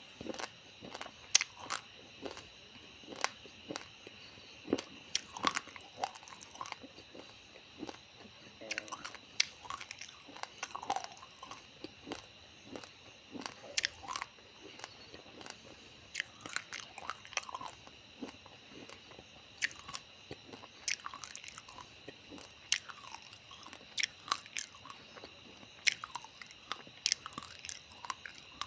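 Raw, uncooked rice grains being crunched and chewed in the mouth: sharp, irregular crunches, several a second, going on throughout.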